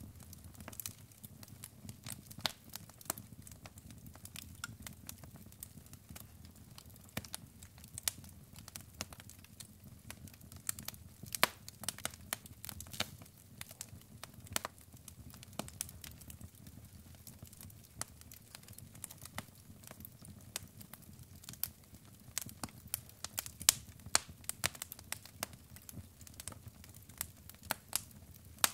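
Wood logs burning in a fireplace: irregular sharp crackles and pops over a steady low rumble of the flames, with a few louder pops in the middle and near the end.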